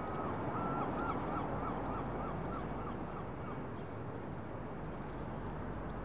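A quick run of about a dozen short, evenly spaced bird calls, three or four a second, fading out after three or four seconds, over a steady background wash of water and outdoor noise.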